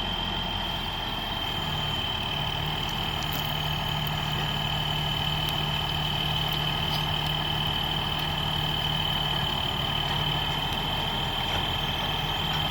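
Tow truck engine idling steadily, with a constant high-pitched whine over the low engine hum.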